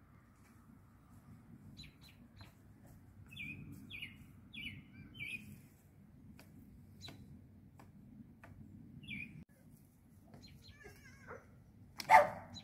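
Small birds chirping, with a quick run of short falling chirps a few seconds in and scattered single chirps after. Near the end a dog barks once loudly.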